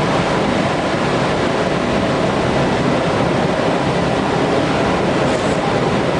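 Industrial gas burner on a thermal oil boiler running: a loud, steady, unbroken roar of firing flame and combustion-air fan.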